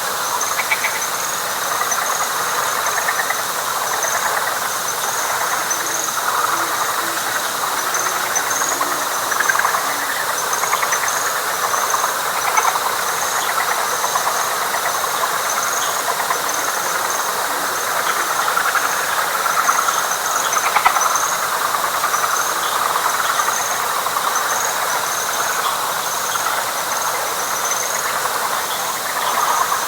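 Dense night chorus of frogs calling together in a wet pine flatwoods, a continuous overlapping din. Above it are a steady high insect drone and a rhythmic high-pitched insect chirping that repeats evenly.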